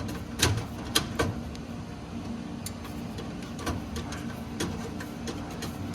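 Irregular sharp metallic clicks and taps as a flame sensor is fastened back into a gas furnace with a nut driver, over a steady low hum.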